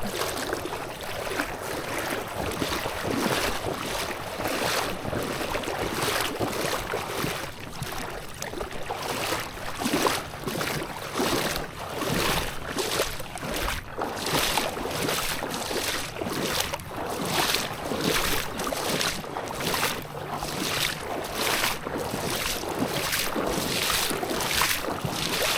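Small boat running across choppy water: water rushing and slapping against the hull in repeated hits, about one or two a second, with wind noise on the microphone.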